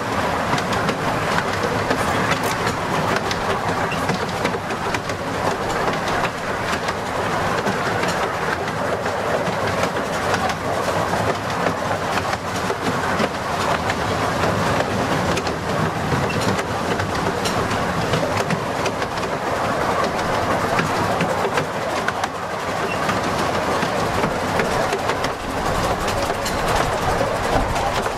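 Miniature steam railway train running along the track, heard from an open carriage just behind the locomotive. The wheels give a steady rumble with frequent clicks over the rail joints.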